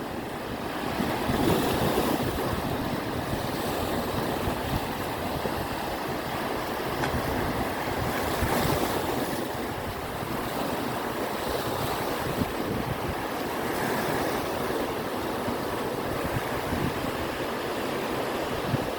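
Sea waves washing onto the shore, with wind buffeting the microphone. The surf swells louder about two seconds in and again around eight to nine seconds.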